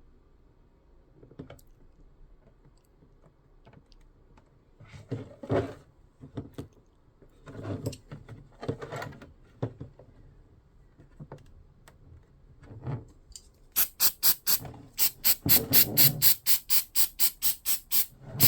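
Scattered rustles and knocks from handling a 3D-printed plastic helmet part. In the last few seconds comes a fast, regular run of sharp rasping strokes, about five a second.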